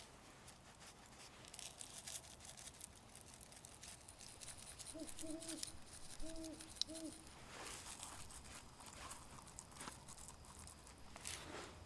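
Faint rustling and crinkling of hands working with the steak and its wrapping. About five seconds in, four short, low hooting calls come in two pairs.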